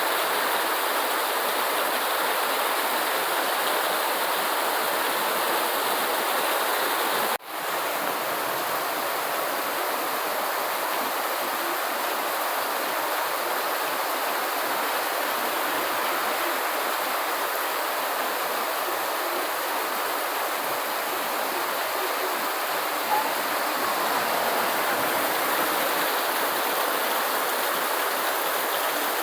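Steady rain, an unbroken even hiss of falling water, with a brief drop-out about seven seconds in.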